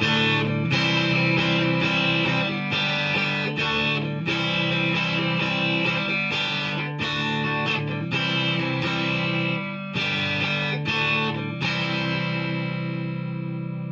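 PRS SE McCarty 594 Singlecut electric guitar on its neck pickup split to single coil, played through a Marshall DSL-1 amp: a run of strummed chords and picked notes, ending about 11 seconds in on a chord left to ring and slowly fade.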